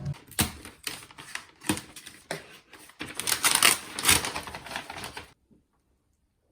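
A quick run of sharp clicks and clattering rattles, busiest about three to four seconds in, that cuts off abruptly a little after five seconds.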